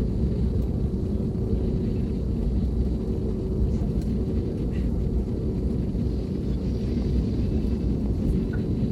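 Steady low rumble of a vehicle running, with a faint constant hum and a few light ticks.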